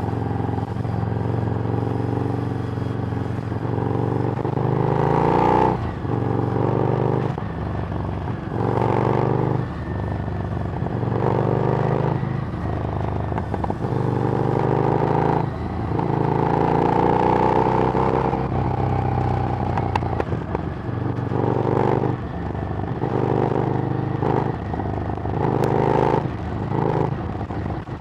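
Harley-Davidson Street Rod's 750 cc V-twin running through a Screamin' Eagle exhaust while riding, accelerating and shifting over and over: the pitch climbs for a second or two, drops at each shift, then climbs again.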